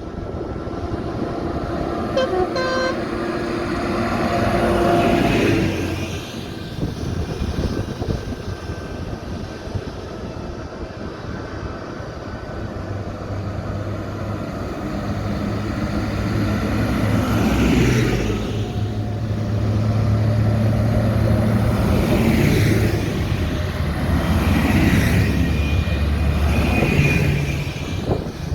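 Tractors driving past one after another, their engines swelling and fading as each goes by, with short horn toots about two seconds in and again near the end.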